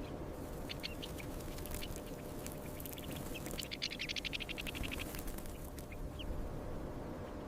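Birds calling: scattered short high chirps and a fast rattling trill about halfway through, over a low steady rumble.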